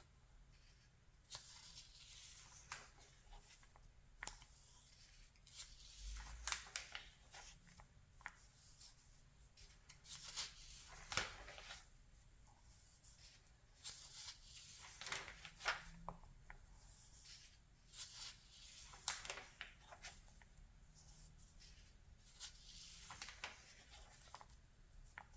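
Magazine pages being turned and handled: soft, faint paper swishes and rustles, with small crisp clicks, coming in clusters every few seconds.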